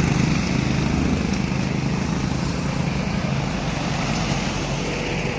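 A vehicle's engine running steadily with road noise as it drives along.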